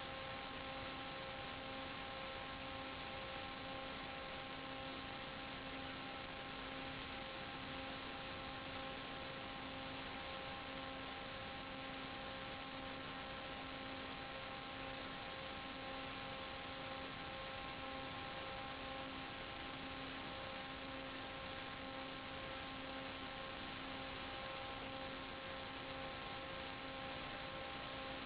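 Steady electronic hum and hiss: several fixed buzzing tones over an even hiss, with a lower tone that wavers on and off about once a second, unchanging throughout.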